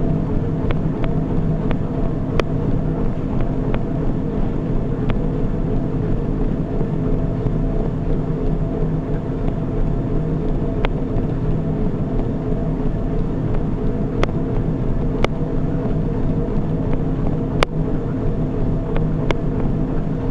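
Steady mechanical hum of a running treadmill, with scattered sharp clicks at irregular moments.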